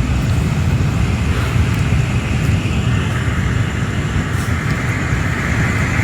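Steady, loud outdoor rumble without a break, heaviest in the low end.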